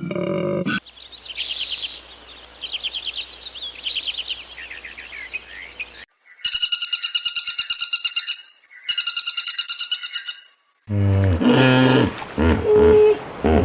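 A run of different animal calls edited one after another. Trilled bird song for about five seconds, then a loud, rapid pulsed call in two bouts, then a lower call with several pitched notes near the end.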